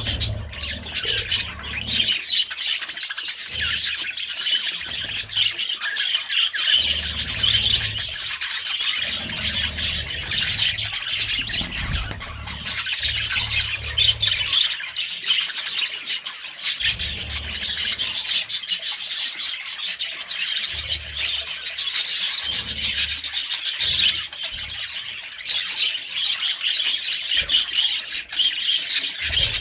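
A flock of budgerigars chattering continuously, a dense mix of warbling chirps and squawks. A low rumble comes and goes underneath.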